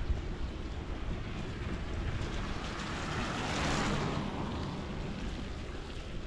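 Wind buffeting the microphone outdoors in a snowstorm: a steady rumbling rush that swells in the middle and eases off again.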